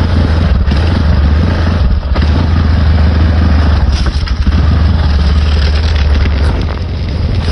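Honda Recon 250 ATV's single-cylinder engine running as it is ridden through a ditch, a steady low rumble under a noisy rush of wind and handling noise, easing briefly about two seconds in and again near the end.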